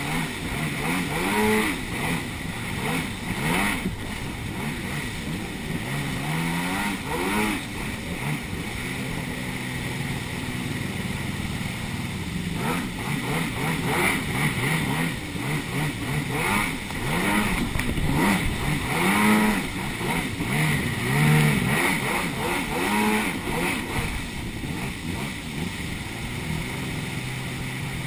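Jet ski engines revving up and down over and over, over a steady rushing noise.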